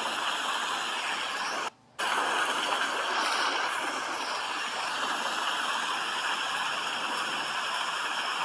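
Steady rain hiss, an even wash of noise, which drops out briefly a little under two seconds in and then resumes.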